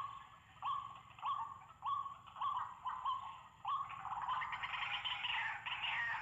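White-breasted waterhen (ruak-ruak) calling: a string of short, harsh rising notes repeated about every 0.6 s. From about four seconds in, the calls run together into faster, overlapping calling.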